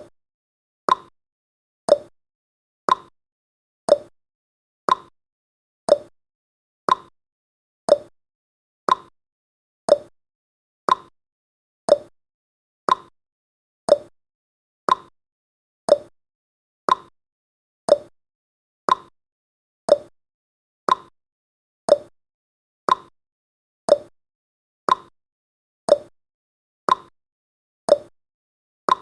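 Clock-style ticking sound effect of a countdown timer: one sharp tick every second, alternating slightly higher and lower like a tick-tock.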